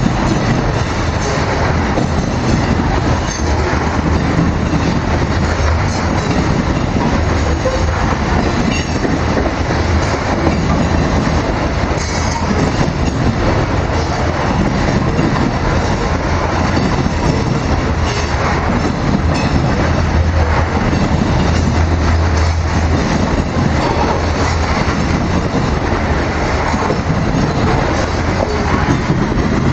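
Loaded grain hopper cars rolling past on the rails: a steady, loud rumble with the clickety-clack of wheels over the rail joints.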